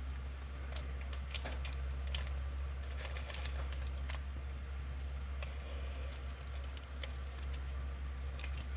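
Scattered light clicks and taps at an uneven pace, as of hands working at a desk, over a steady low electrical hum.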